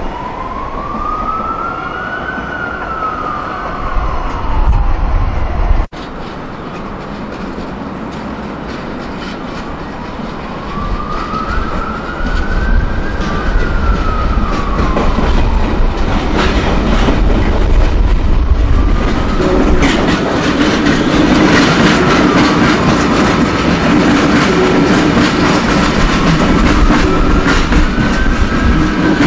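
Double-deck electric suburban train running past, wheels clicking over rail joints, growing louder about halfway through. A siren rises and falls in slow wails in the background.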